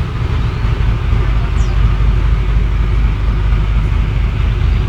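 Boat engine running steadily with a constant low rumble.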